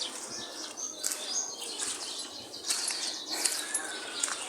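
Birds chirping, with repeated short high calls over steady outdoor background noise.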